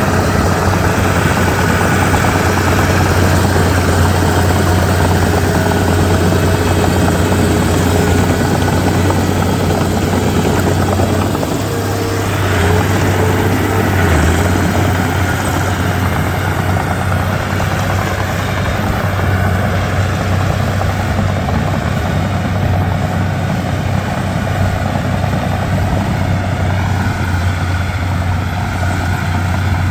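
Komatsu D31P crawler bulldozer's diesel engine running steadily with a deep hum, with a brief swell and change in pitch about twelve seconds in.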